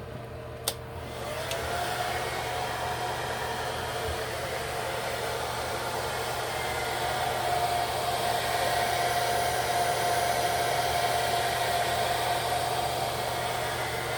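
Hair dryer clicked on, its motor whine rising as it spins up, then blowing steadily: drying the adhesive to melt a lace wig's lace into the skin.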